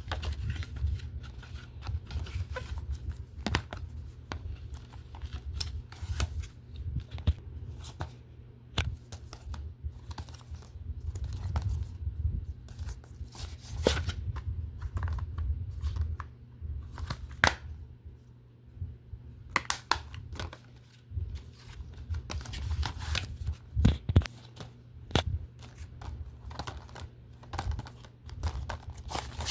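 Plastic DVD cases being handled: irregular clicks, taps and crinkling throughout.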